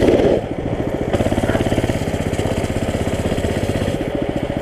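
Mini bike engine idling with a steady, even beat, with a brief louder burst right at the start.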